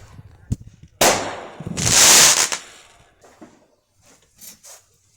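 Fireworks going off: a sharp crack, then a loud bang about a second in, followed by about a second of loud hissing burst. A few fainter pops follow near the end.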